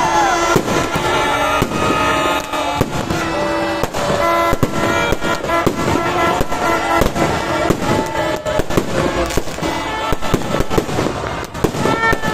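Fireworks display: a rapid, continuous run of bangs and crackling cracks, with music playing underneath.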